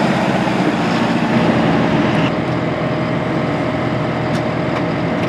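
John Deere 5100E tractor's four-cylinder turbo diesel engine running steadily. About two seconds in the sound eases slightly and a steady whine carries on.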